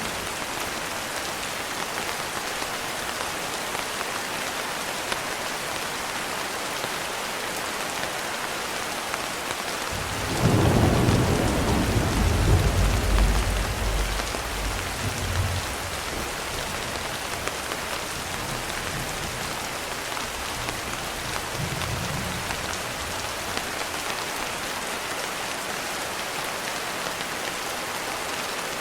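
Steady rain hissing, with a roll of thunder about ten seconds in that rumbles low for about five seconds before fading back into the rain.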